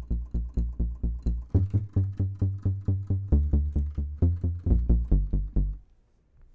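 Synth bass patch, the bs-16i's pulse bass, played as a fast run of repeated low notes, about seven a second, stepping to a new pitch a few times and stopping shortly before the end.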